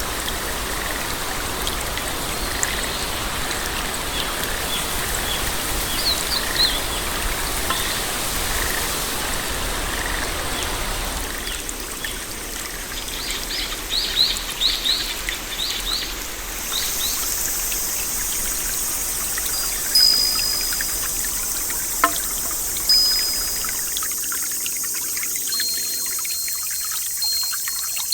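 Steady rain with trickling, pouring water, and clusters of short high chirps. About halfway through, the sound shifts to a higher, thinner water hiss and the low rumble fades away.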